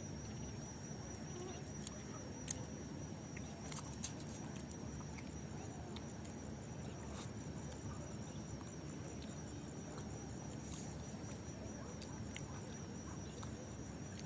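Quiet outdoor ambience: a low steady rumble with a faint, wavering high tone, broken by a few short sharp clicks about two and a half and four seconds in.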